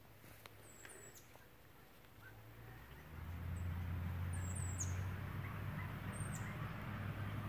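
Small birds chirping in a few short, high calls, over a steady low hum that comes in about three seconds in and stays.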